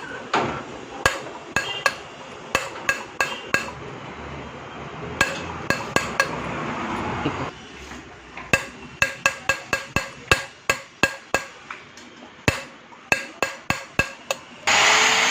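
Repeated sharp metal-on-metal taps with a short ringing tone, from hand work on the valves and seats of a Hero Splendor cylinder head during valve facing. A few seconds in comes a rasping rubbing stretch. Near the end a loud, steady noise starts.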